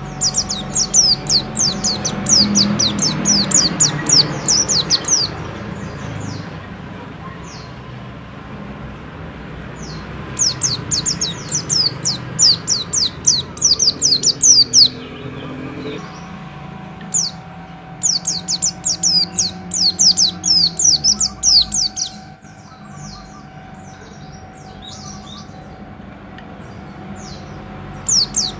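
Pleci (white-eye) singing in fast, high, chattering bouts of quick downward-sweeping notes, three long bouts of a few seconds each with scattered single notes between, over a low steady background hum.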